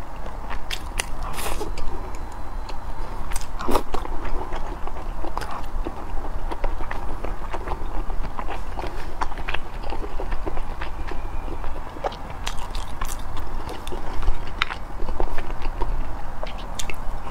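Close-miked chewing and biting of rice and meat, with frequent irregular wet clicks and smacks from the mouth.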